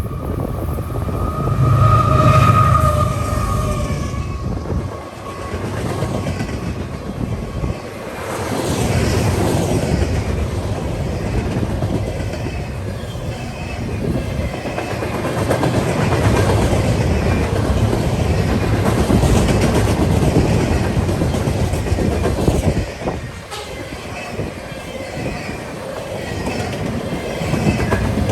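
Train passing on the rails, wheels clattering over the rail joints in a loud, continuous rumble that swells and eases, with a steady tone for a couple of seconds near the start.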